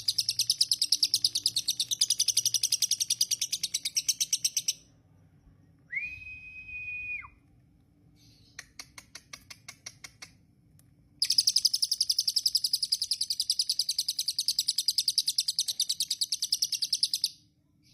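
Lovebird singing in long runs of rapid, high chirps, about ten a second, the continuous trilling prized in song lovebirds. The song breaks off near the five-second mark for a single held whistle and a short run of quick clicks, then the fast chirping starts again for about six seconds.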